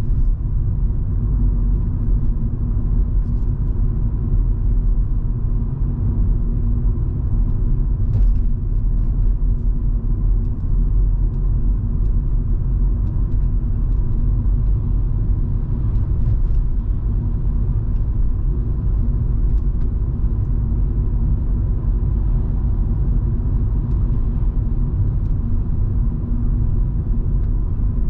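In-cabin sound of a Volvo V70 2.5T on the move: a steady low engine and road rumble from its turbocharged 2.5-litre five-cylinder, with an even drone and scattered faint ticks.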